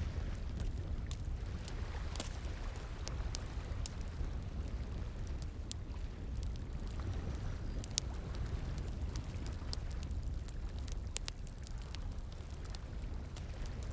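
Wood bonfire crackling, with many irregular sharp pops and snaps, over a steady rush of flowing water.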